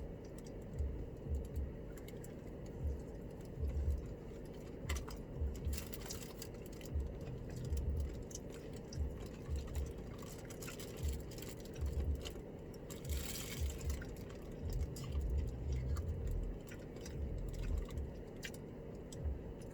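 Chewing a crunchy breaded boneless chicken wing close to the microphone: soft, irregular low thumps about once or twice a second, with a few faint clicks.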